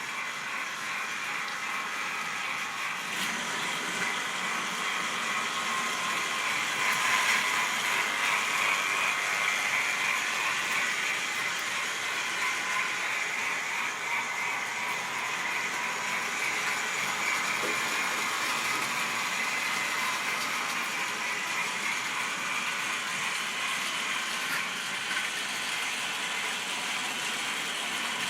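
Model railway train running on its track: a steady whirring of the small motor and gearing, with wheel rattle. It swells louder about seven seconds in, then runs on evenly.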